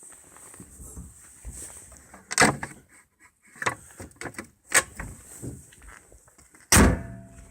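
A series of knocks and thuds, with softer shuffling noise between them; three stand out about two seconds apart, the last near the end the loudest, followed by a faint brief hum.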